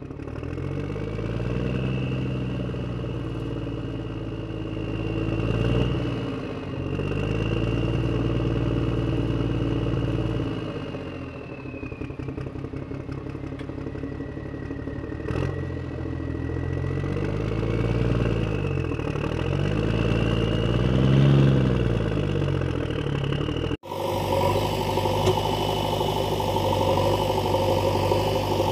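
Vehicle engine revving up and down several times, its pitch rising and falling. About 24 s in the sound cuts abruptly to a steadier engine running at an even pitch.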